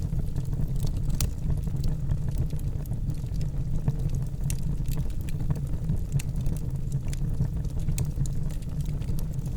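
Wood fire burning in a fireplace: a steady low rumble of flames with frequent small, sharp crackles and pops at irregular intervals.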